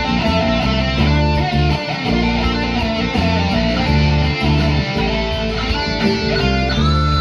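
Guitar-led instrumental music: electric guitar over a steady bass line, with a note bent upward near the end.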